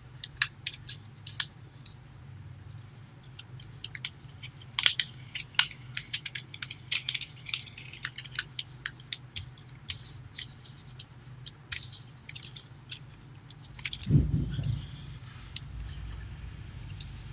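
A sheet of paper being folded and pressed along its creases: irregular crinkling and crackling with light scrapes, over a steady low hum. A dull thump about fourteen seconds in.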